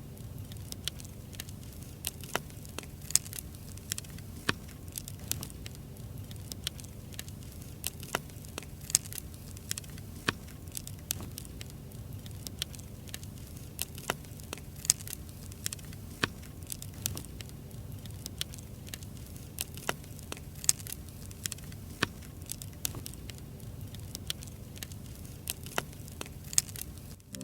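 Firewood burning in a campfire, crackling with frequent sharp pops over a steady low rumble.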